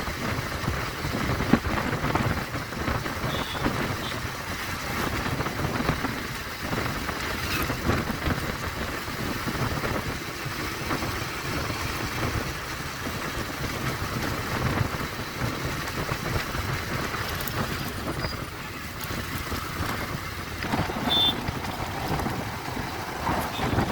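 Bajaj Pulsar 150 single-cylinder motorcycle being ridden, its engine running under a steady rush of wind and road noise.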